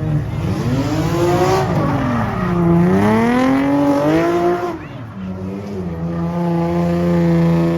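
Car engine revving hard, its pitch rising and falling several times. It then holds at high revs for a couple of seconds and drops away just before the end.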